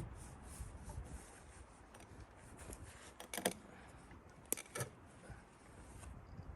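A peavey working against a heavy fir timber to roll it: faint scraping and rubbing of wood. There are a few sharp knocks, one about three and a half seconds in and two more close together about a second later.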